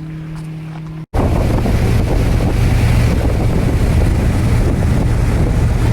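A steady low hum, then, after an abrupt cut about a second in, a tour boat's engine running under loud wind noise buffeting the microphone.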